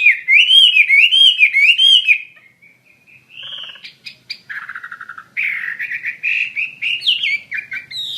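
Chinese hwamei (wambi) singing loudly: a run of rapidly repeated, looping whistled notes, then after a short pause a run of varied, changing phrases.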